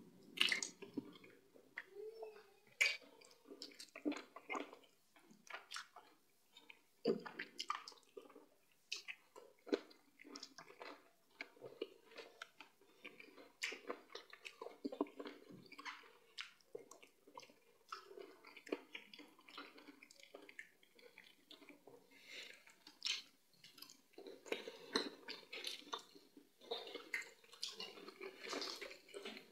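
Close-mic'd wet chewing and lip-smacking of people eating fufu and soup by hand. Irregular squelches and small clicks come from soft dough and soup being squeezed in the fingers and from the mouth.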